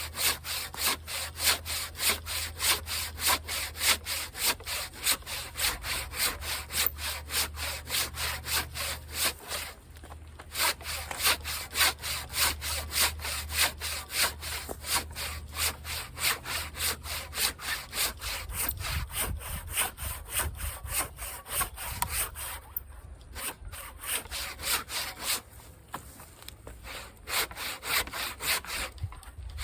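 Husky 20-inch fine-tooth hand saw cutting through a dried tree trunk, a steady rhythm of back-and-forth rasping strokes at about two a second. The strokes break off briefly about a third of the way in and again later on.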